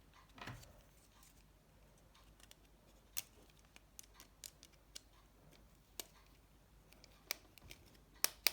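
Scattered sharp clicks and ticks of a small screwdriver working a tiny screw in a mobile phone's casing, a few strikes spread at irregular intervals with the loudest near the end. It is the clicking the repairer dislikes, which he suspects comes from his screwdriver.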